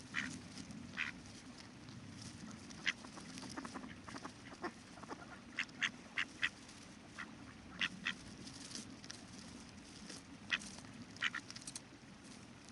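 Ducks quacking in short, scattered calls, some in quick pairs, over a steady low rush of river water.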